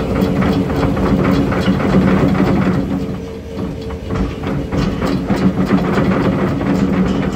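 Heavy diesel engine running steadily at a fairly high idle, with a quick rattling clatter over it.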